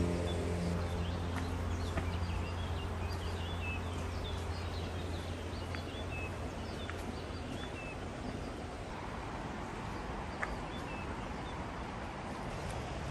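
Small birds chirping repeatedly over a steady outdoor background rush, with a few light clicks; a low held note of background music fades out over the first few seconds.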